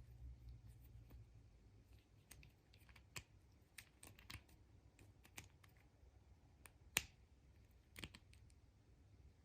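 Small plastic toys and egg capsules being handled: faint, irregular clicks and taps, the sharpest about seven seconds in.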